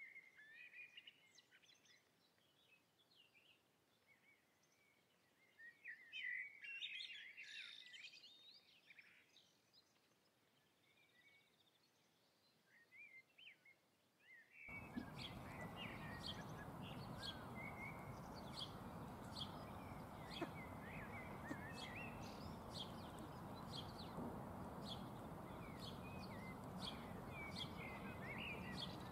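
Birds chirping and calling, sparsely at first. About halfway through, a steady background noise sets in, with a short high call repeating about once a second.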